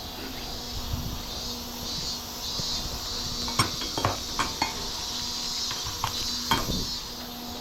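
Light metallic clinks and knocks, about six of them through the middle, over a steady hum of small fans such as those of a fan-cooled work jacket.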